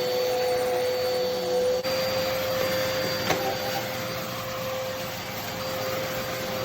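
Hoover Complete Performance bagged corded vacuum cleaner running steadily, its motor making a constant hum with a hiss of airflow. There is a single sharp click a little past the middle.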